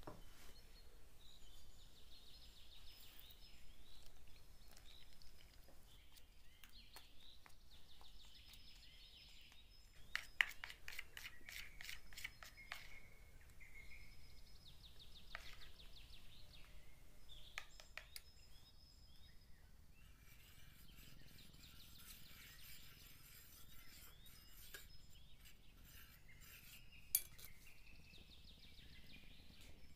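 A tiny metal spoon clinking and scraping against a small steel bowl while stirring flour, sugar and milk into a batter, quiet overall, with a quick run of clinks about ten seconds in and one sharp clink near the end.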